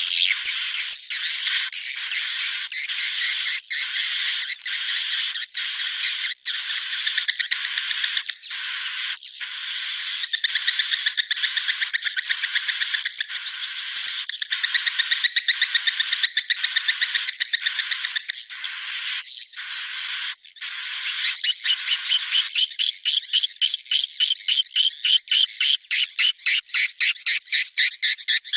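Swiftlet calls from a recorded lure track of the mating and breeding call used to draw swiftlets into a nesting house. High chirping phrases with a rising twitter repeat about one and a half times a second. About 22 seconds in they change to a faster run of short chirps.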